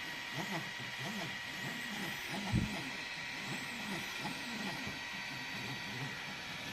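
EasyThreed K10 3D printer printing: its stepper motors whine in short sweeps that rise and fall in pitch again and again as the head moves back and forth, over a steady hiss with a high steady tone. A single short knock comes about two and a half seconds in.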